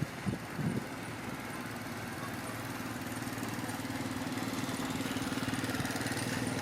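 Bulldozer's diesel engine running steadily, slowly growing louder.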